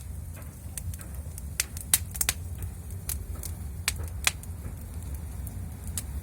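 Fire crackling, with irregular sharp pops and snaps, over a steady low rumble.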